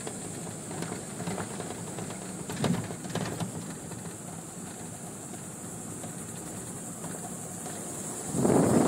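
Truck engine running low and steady as the truck rolls slowly, with a few knocks about three seconds in. Near the end a loud rush of wind on the microphone sets in.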